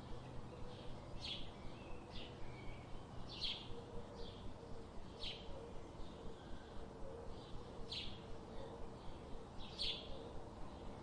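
Birds chirping in short, high calls about once a second over a steady background hiss.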